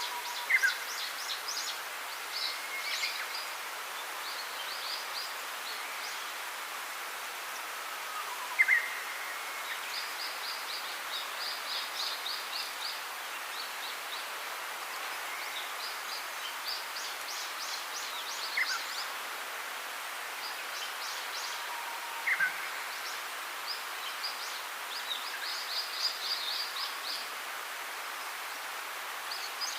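Birds singing: bursts of rapid high chirping trills and short falling whistle notes every few seconds over a steady background hiss.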